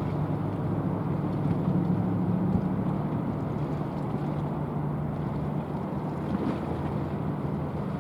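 A patrol ship's engines running steadily as it passes, a constant low hum over a rush of water and wind noise.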